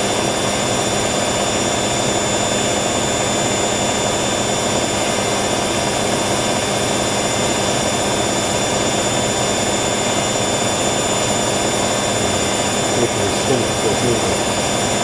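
Hoover WDYNS654D slim-depth washer dryer spinning at high speed, a steady drum rumble with a constant whine, the spin having reached about 1,000 rpm.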